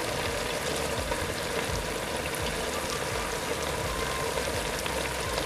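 Julienned yellow and red carrots, just added to hot oil with meat and onions, frying with a steady sizzle and faint crackles.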